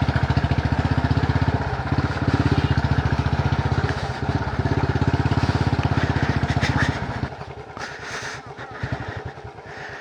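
Two-wheeler engine running steadily while riding, then easing off about seven seconds in, where it drops to a lower, quieter pulse.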